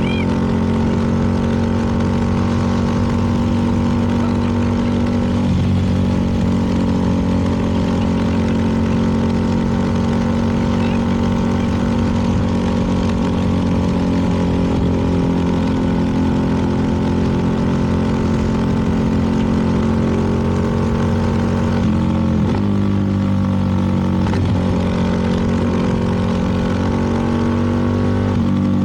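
CFMoto 300NK's single-cylinder engine running steadily at cruising speed, its pitch shifting briefly a couple of times near the end.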